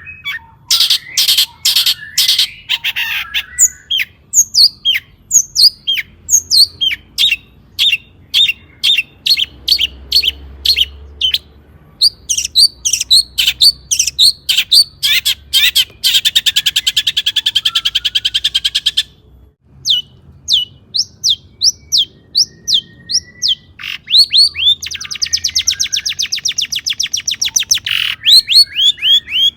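Long-tailed shrike (cendet) singing a loud, varied song of sharp, quick notes in rapid series, broken by two fast rattling trills, one in the middle and one near the end.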